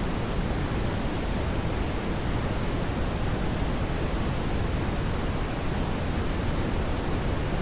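Brown noise: a steady, even rush, deepest in the low end, with no change or events.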